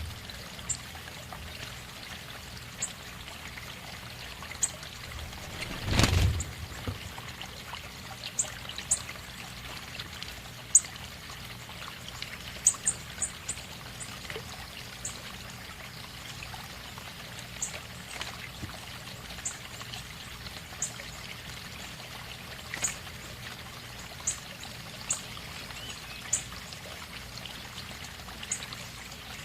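Steadily trickling water with small birds giving short, high chirps at irregular intervals, and one brief louder noise about six seconds in.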